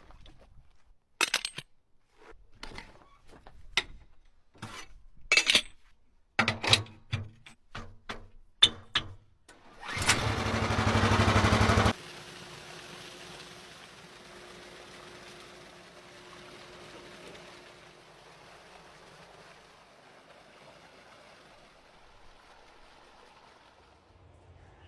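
A run of separate knocks and clanks, then an engine being cranked for about two seconds, followed by a much quieter steady hiss.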